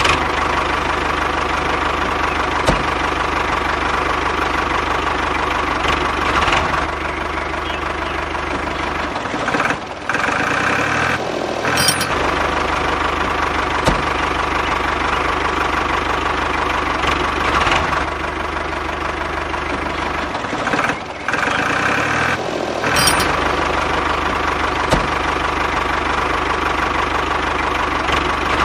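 RC backhoe loader running with a steady engine-like sound. Twice, about a third of the way in and again about three quarters through, the low hum drops out for a couple of seconds and a higher whine takes over.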